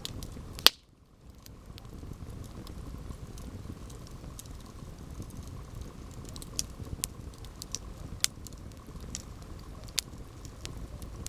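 Campfire burning with irregular crackles and snaps over a low steady rumble. A single loud, sharp pop comes under a second in, and the sound drops away almost completely for about a second after it before the crackling resumes.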